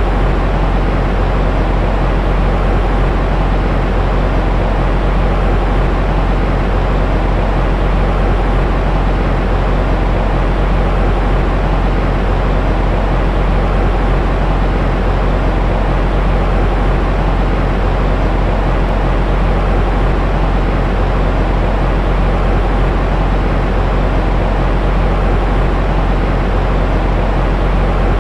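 Steady white noise for soothing a baby to sleep: an even, deep hiss, heaviest in the bass, with no change in level.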